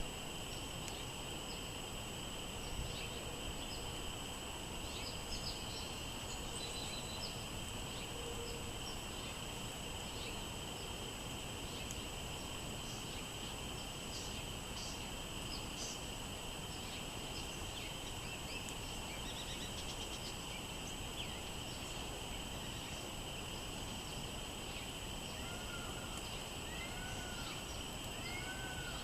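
Wind rumbling on the microphone under a steady high-pitched drone, with scattered songbird chirps; near the end a bird gives a run of short arched whistled notes, one or two a second.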